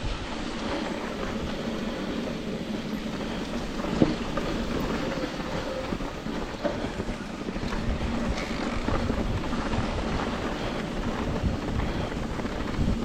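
Mountain bike rolling along a dirt trail, tyre and riding noise mixed with wind buffeting the microphone, with a single sharp knock about four seconds in.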